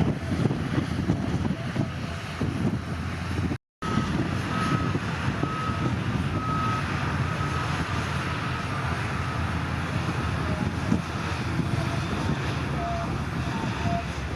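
Heavy diesel earthmoving machinery running with a steady low rumble, cut off briefly by a short gap a few seconds in.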